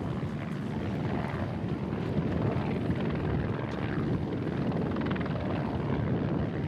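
A helicopter flying overhead: a steady low drone with no sharp events.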